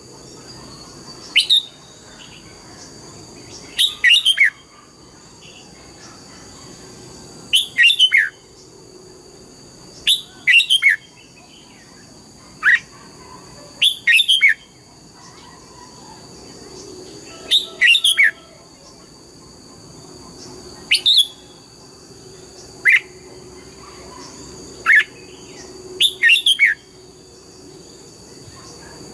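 Red-whiskered bulbul singing, a short phrase of quick falling whistled notes every two to three seconds. A faint, steady high-pitched tone runs behind it.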